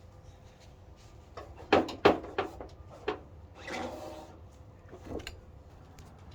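Things being handled during cleaning: a quick run of four sharp knocks and clacks, then a short scraping rub, then one more knock.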